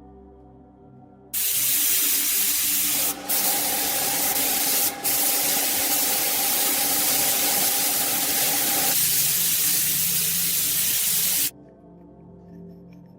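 A long, loud spray hiss lasting about ten seconds, with two brief breaks a couple of seconds in, over soft background music.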